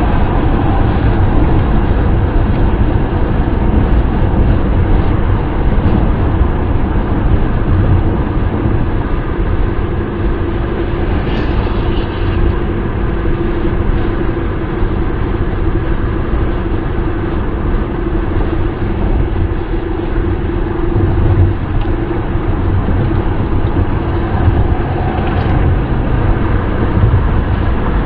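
Steady wind and road noise of a car driving, a deep even rumble with no change in speed. A faint steady hum rides on it through the middle of the stretch.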